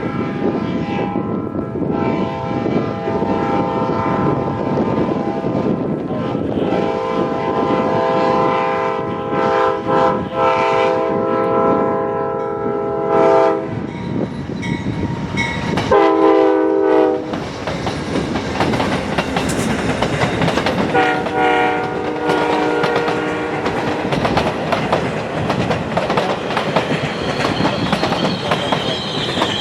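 Amtrak diesel locomotive arriving on a passenger train, sounding its multi-chime horn in the grade-crossing pattern: two long blasts, a short one, then a long one. Wheels clack over the rail joints throughout, and a high squeal, typical of brakes or wheels, comes in near the end as the train slows into the station.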